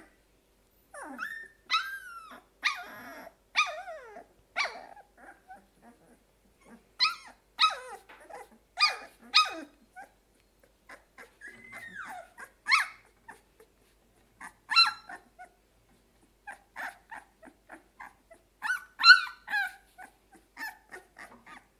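Two-week-old golden retriever puppies crying: repeated short, high-pitched yelps and whines, some sliding up and down in pitch, in bursts with pauses between.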